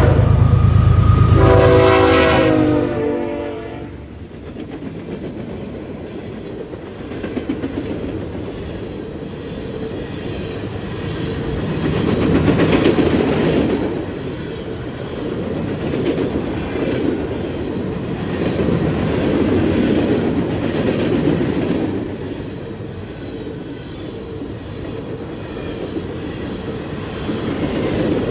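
Norfolk Southern freight locomotive sounding its multi-note horn over a low diesel engine rumble, the horn cutting off about three seconds in. Then a long string of gondola cars rolling past with steady wheel clatter over the rail joints, swelling and easing as the cars go by.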